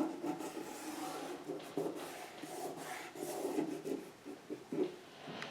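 Paper being handled and rubbed down against a work surface, with soft scraping and a few light taps.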